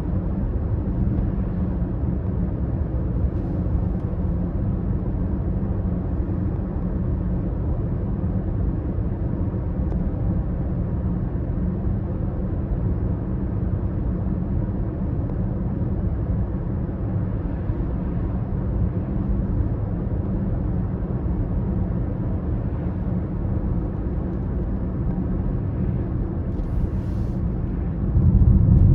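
BMW X5 30d's straight-six turbodiesel running at a steady cruise with a low, even rumble, growing louder about a second before the end.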